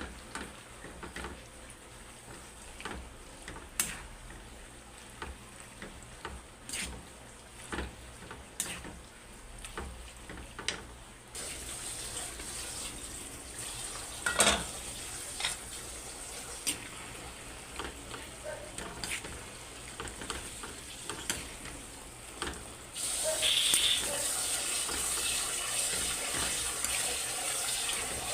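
Scattered knocks and clatter of kitchen work, then a tap running: the water comes on abruptly about eleven seconds in and is opened further, running louder, about twenty-three seconds in.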